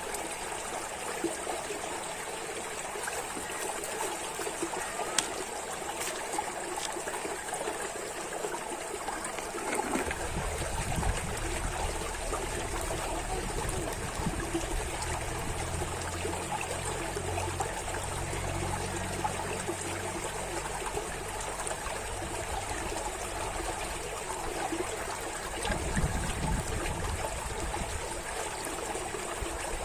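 Running water trickling steadily. From about ten seconds in, a low rumble joins underneath it.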